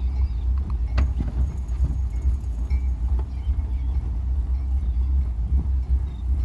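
Marine Trader boat's engine running steadily under way, a low rumble, with a sharp click about a second in.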